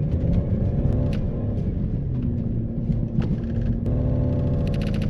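Car engine running, its pitch shifting up and down in the first second or so and then holding steady, with a few light clicks over it.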